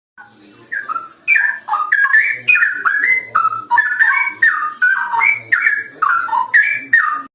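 Straw-headed bulbul (cucak rowo) in full song: a fast, unbroken run of loud, liquid whistled notes gliding up and down. It starts a moment in and breaks off abruptly just before the end.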